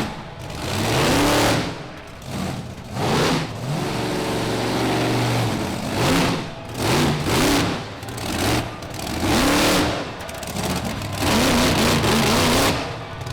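Monster truck engine revving hard in repeated throttle bursts, its pitch rising and falling again and again.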